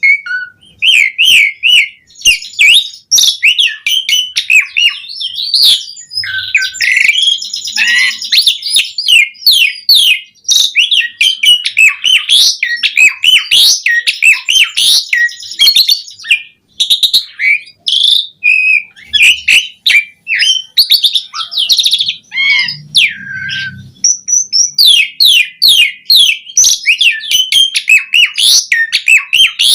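Asian pied starling singing vigorously: a fast, almost unbroken stream of varied whistles, chirps and chattering phrases, the mixed song with its mimicked filler phrases that keepers call "isian".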